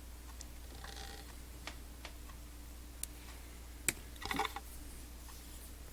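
Faint handling noises of small hobby work on a desk: a few light clicks and taps, one sharper click near the middle followed by a brief rustle or scrape, over a low steady hum.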